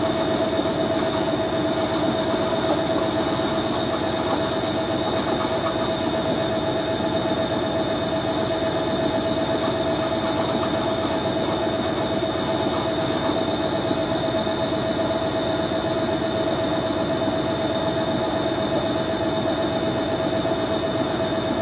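Hoover A3060 Electronic 1100 washing machine spinning steadily, its motor running with a constant tone and a steady high whine over it. The motor bearings are dry, and the owner says they need oiling.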